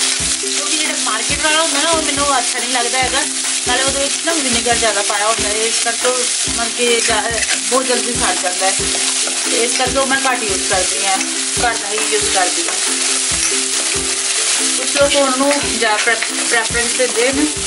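Grated garlic and ginger paste sizzling in hot oil in a stainless steel wok, stirred with a steel spoon that clicks and scrapes against the pan again and again.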